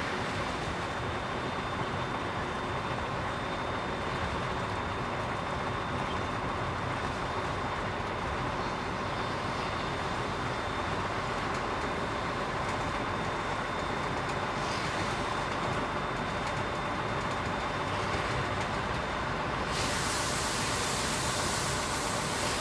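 Container truck driving at a steady pace: continuous engine and road noise. About twenty seconds in, the hiss suddenly gets brighter.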